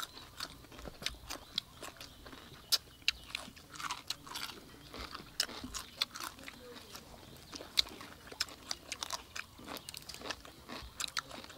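Several people biting and chewing crispy fried chicken and raw cucumber: irregular sharp crunches, many in quick succession, mixed with chewing.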